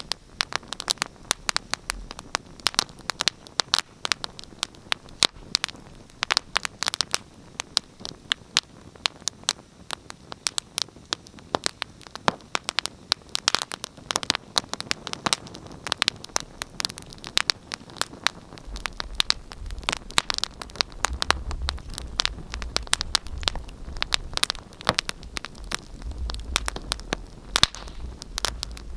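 Wood fire crackling: many irregular sharp pops and snaps over a soft hiss. A low rumble joins in about two-thirds of the way through.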